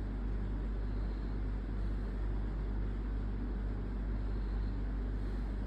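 A steady low hum over a faint even hiss, unchanging throughout, with no distinct events.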